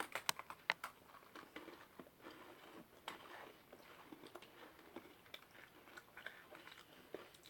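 People biting into and chewing Red Velvet Cream Cheese Oreo sandwich cookies, with a few sharp crunches in the first second and then faint, scattered chewing.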